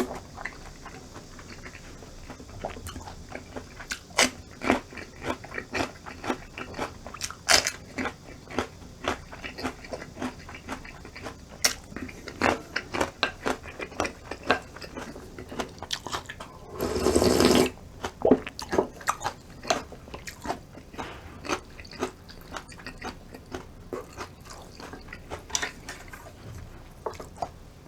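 Close-miked eating of cold acorn jelly rice soup with garlic scapes and peppers: repeated chewing with many short, sharp crunches. About two-thirds of the way through comes one brief, louder rush of noise.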